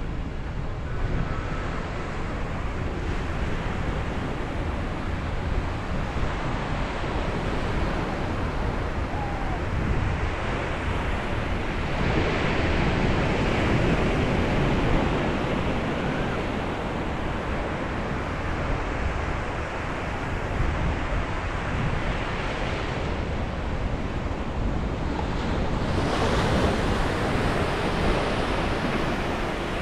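Ocean surf: waves breaking and washing on the shore in a steady rush, swelling louder twice, about midway and again near the end.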